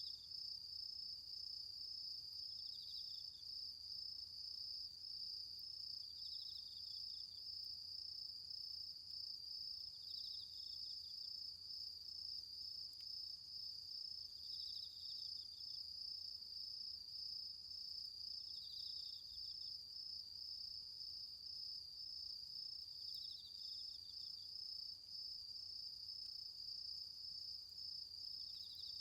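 Autumn insects singing: one insect holds a steady, unbroken high trill, while another adds a short pulsed chirp phrase about every four seconds.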